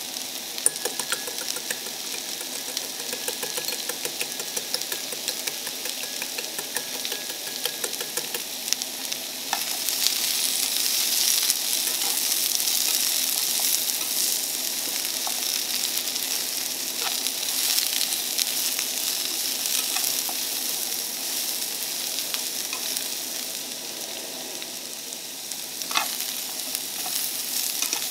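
Vegetable strips sizzling in oil in a small frying pan on a portable gas stove. For the first eight seconds or so there is quick, dense clicking of chopsticks beating eggs in a bowl. From about nine seconds in the sizzling gets louder as chopsticks stir the pan, with occasional taps against it.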